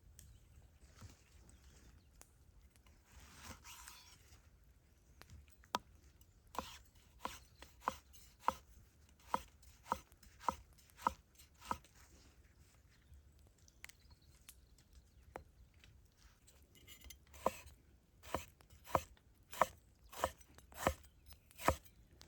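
Knife chopping on a cutting board: two runs of even strokes, about two a second, with a pause between them.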